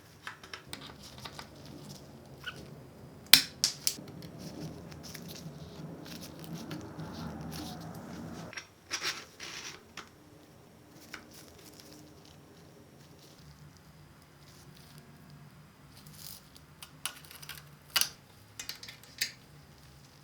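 Hand work on bicycle parts: scattered sharp clicks and knocks of parts and tools, with a few seconds of steady noise that stops suddenly about eight seconds in.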